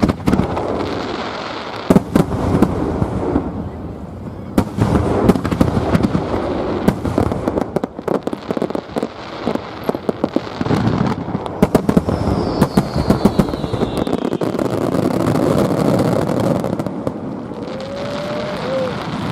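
Aerial fireworks bursting in quick succession, sharp reports mixed with dense crackling and a steady rumble, with a short falling whistle about two-thirds of the way through.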